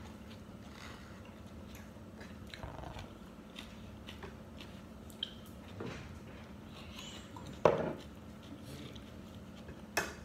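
A person chewing and biting food close to the microphone, hand-eating from a plate, with scattered faint clicks. A sharp loud click-like sound comes about three quarters of the way in and another near the end.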